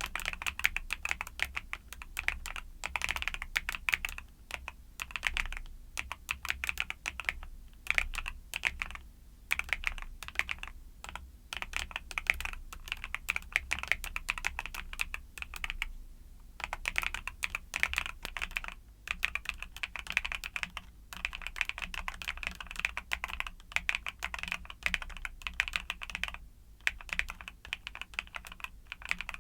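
Mechanical keyboard with YUNZII Cocoa Cream switches being typed on quickly and continuously, a dense patter of key clicks broken by a couple of brief pauses.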